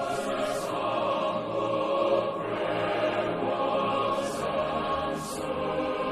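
Film score: a choir singing long held chords.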